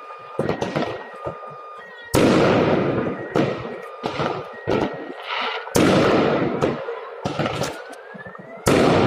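New Year fireworks going off: three loud booms, each trailing off in a long echoing rumble, with smaller pops and crackles between them. A faint rising whistle comes shortly before the last boom.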